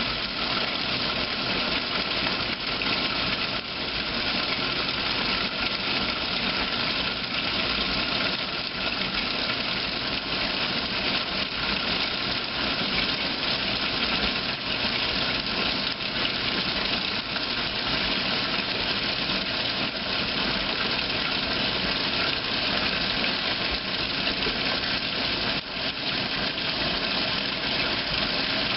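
A 2008 Kenmore top-load washing machine runs its heavy-duty cycle, with a tumble dryer running alongside it. The noise is steady and mechanical, with no breaks.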